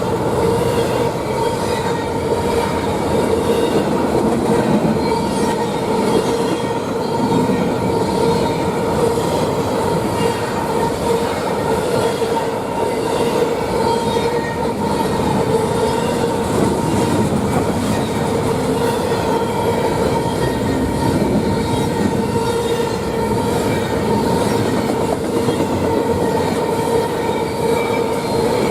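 Freight train rolling past, its cars clattering over the rail joints, with a steady high squeal from the wheels held throughout.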